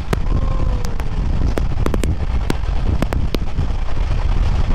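Humsafar Express train running at speed, heard from outside the coach window: a heavy low rumble with wind buffeting the microphone and irregular sharp clicks and knocks. A faint tone slides downward in the first second.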